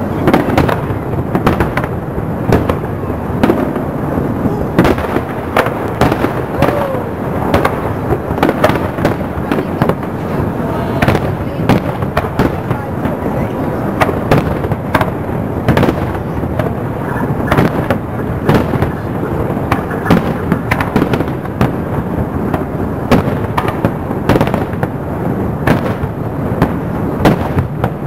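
Aerial firework shells bursting in a dense, continuous barrage: two or three sharp bangs a second, with crackle between them.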